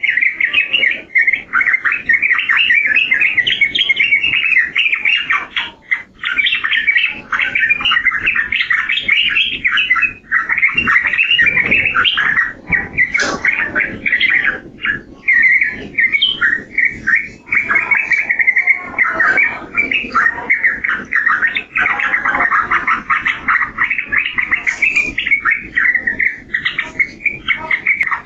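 Yellow-vented bulbul (trucukan) singing continuously in rapid strings of chattering notes, with only brief pauses.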